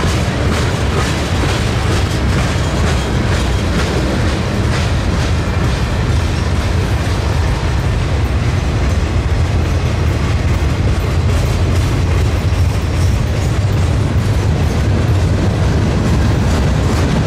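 A train passing close by: a steady, heavy rumble of wheels on the rails, with light clicks of wheels crossing rail joints.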